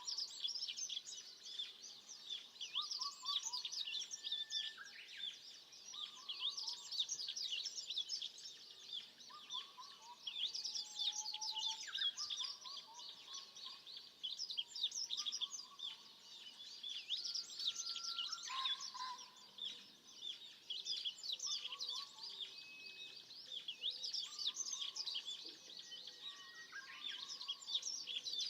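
Forest birds singing: a dense chorus of high, quick chirps and trills, with a lower short call repeating every couple of seconds.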